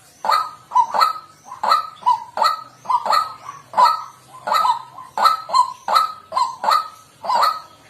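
White-breasted waterhen calling a repeated harsh 'kwak' note, about two calls a second without a break.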